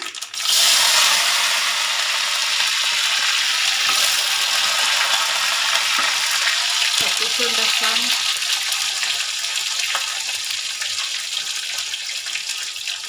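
Sliced small onions (shallots) and curry leaves dropped into hot oil in a kadai, with a sudden loud sizzle about half a second in that carries on as a steady frying hiss, easing slowly.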